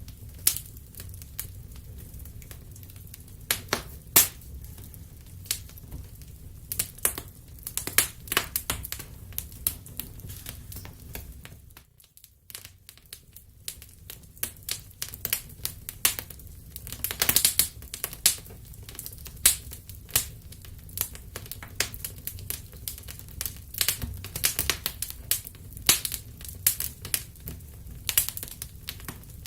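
Wood fire crackling in a fireplace: irregular sharp pops and snaps over a steady low rumble of the flames. The sound dies down briefly about twelve seconds in.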